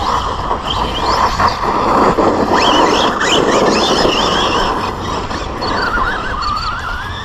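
Team Associated Rival MT10 3S brushless RC monster truck being driven hard. Its motor whine rises and falls with the throttle over the rush of tyres on the ground, loudest in the middle stretch.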